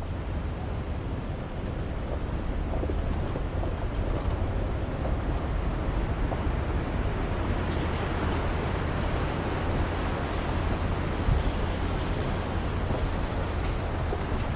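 Pickup truck driving on a dirt road: steady road and tyre noise over a low engine and drivetrain rumble.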